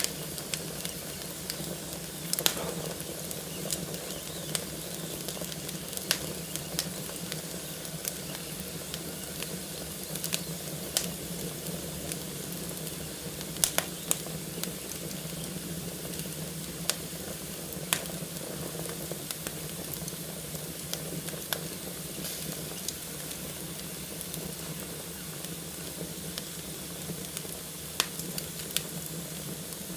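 Fire burning in a fireplace, crackling: a steady hiss with scattered sharp pops, a few of them louder than the rest.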